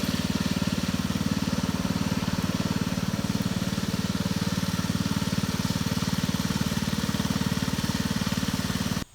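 International Cub Cadet garden tractor's small engine running steadily at an even speed, with a fast regular pulse; it cuts off suddenly near the end.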